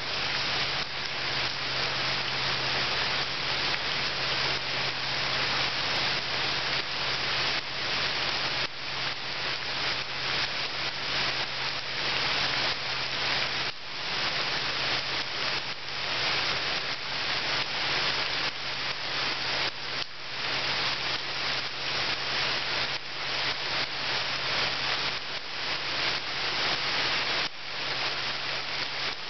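Steady rain falling into a puddle: a dense, even hiss of many drops striking the water.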